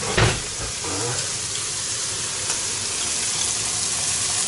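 Onions with tomato paste frying in oil in a kazan, a steady sizzle. A single sharp knock sounds just after the start, with a softer one about a second in.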